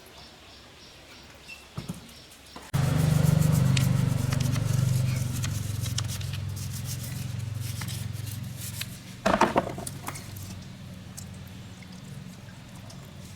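A motor starts abruptly about three seconds in and runs with a steady low hum that slowly fades, with scattered clicks and a short loud clatter near the middle.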